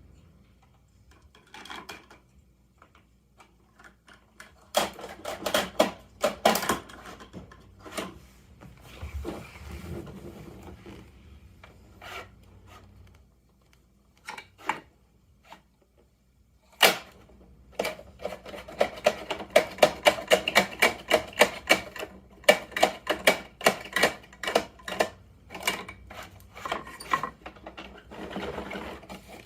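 Plastic parts of a Bruder toy Mack garbage truck clicking and rattling as it is worked by hand. Bursts of quick clicks come and go, with one sharp knock about 17 seconds in and a long run of rapid clicking after it.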